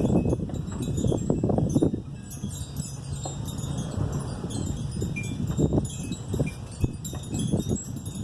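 Hummingbirds' wings humming in uneven, fluttering surges as the birds fly close. Scattered high tinkling tones sound over the hum.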